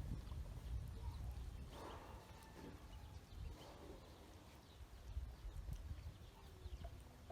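Faint calls of farmyard fowl: a few short calls and some small high peeps over a low rumbling background noise.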